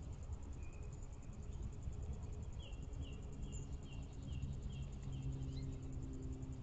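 Insect trilling steadily, a high rapid pulsing, while a songbird whistles a run of about seven quick, repeated down-slurred notes in the middle, over a low outdoor rumble.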